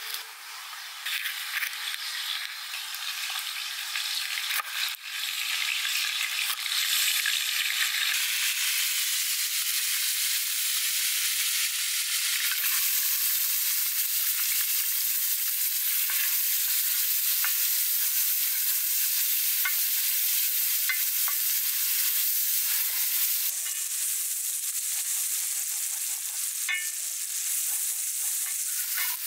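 A knife slicing a red bell pepper on a wooden board for the first several seconds. Then chopped onion frying in oil in a pan over a wood fire: a steady sizzle, stronger after about twelve seconds, with a few light ticks.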